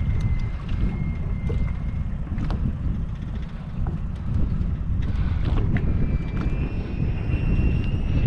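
Wind buffeting the microphone in an open boat, a heavy fluttering rumble throughout, with a thin high whistle in the first two seconds and again from about six seconds in, and a few faint clicks.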